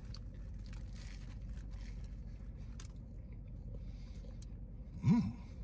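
A man chewing a bite of a chicken and waffle sandwich, with faint smacking clicks and light crunching. Near the end comes a short hummed voice sound that rises in pitch.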